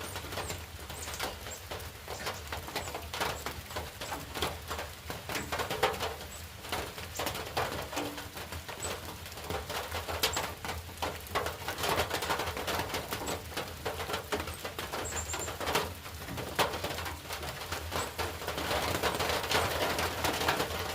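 Rain falling, with irregular drops tapping and pattering over a steady wash of rainfall.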